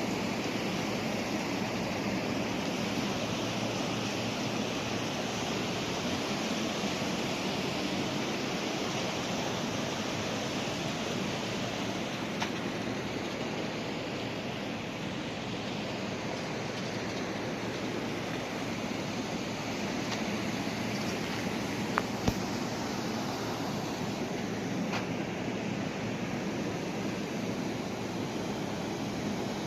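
Steady rush of flowing water, like a mountain stream or small waterfall. A few sharp clicks stand out, the loudest a pair about twenty-two seconds in.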